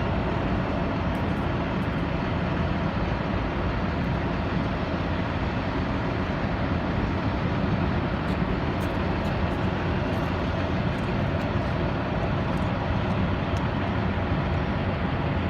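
Steady, even rushing roar, heaviest in the low end and with no clear engine whine: a Boeing 737 MAX 8 jet airliner running on the ground, mixed with outdoor airport noise.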